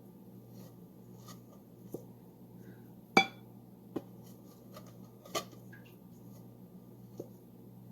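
Scattered clinks and knocks of a utensil against a dish, five in all, the loudest a ringing clink about three seconds in, over a steady low hum.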